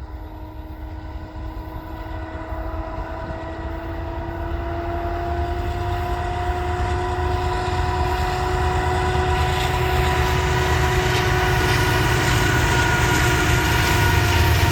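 Norfolk Southern freight locomotive's air horn sounding one long continuous blast, several notes held together as a chord, growing steadily louder as the train approaches. Under it the locomotive's engine rumbles, and from about two-thirds of the way in the rumble and hiss of the train rolling on the rails grow louder.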